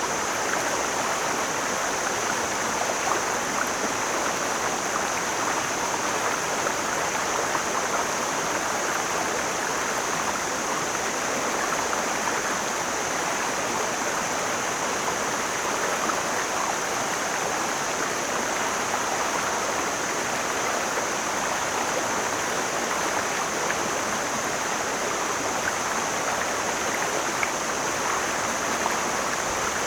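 Mountain stream flowing over rocks in a steady, even rush, with a steady high hiss running through it.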